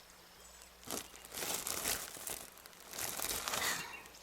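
Crinkling and rustling of wrapping as the apple pie is taken out of a picnic basket: a short rustle about a second in, then two longer stretches of crinkling.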